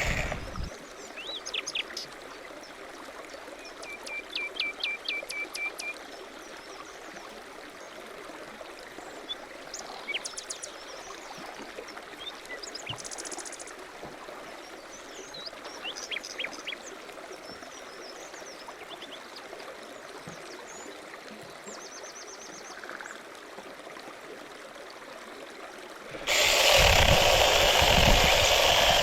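Small birds singing and chirping over a steady faint hiss, with a quick run of repeated notes about four seconds in and short high trills scattered through. A loud small engine cuts out just after the start and comes back suddenly near the end.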